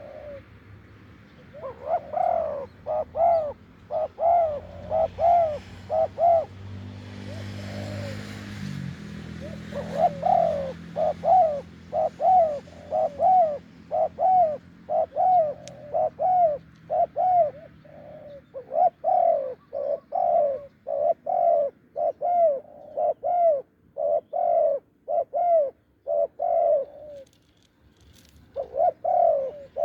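Spotted doves cooing, with long runs of short, rapidly repeated coos broken by brief pauses. A low drone sits under the coos for several seconds in the middle.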